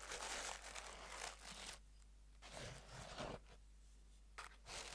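Faint rustling and handling noise from hands working on a metal scale engine model kit and its packaging, in three short stretches with quiet gaps between.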